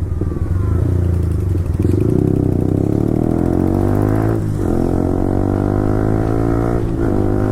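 Yamaha R15 V4's 155 cc single-cylinder engine through an Akrapovic full-system exhaust, accelerating hard: the pitch climbs, drops briefly at two upshifts about four and a half and seven seconds in, and climbs again after each.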